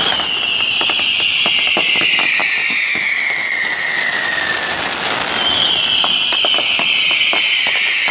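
Fireworks going off: a long whistle falls slowly in pitch for about five seconds, and a second starts about five seconds in, over scattered crackling pops.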